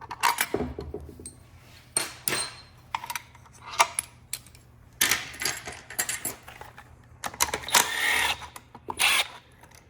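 Metal transmission parts and hand tools clinking and clattering as they are handled during an automatic transmission teardown: a series of sharp metallic clinks, with a longer rattle about three-quarters of the way through.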